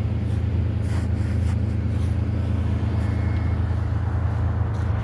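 4.3-litre V6 truck engine idling steadily after a cold start in freezing weather: an even, low drone with no revving.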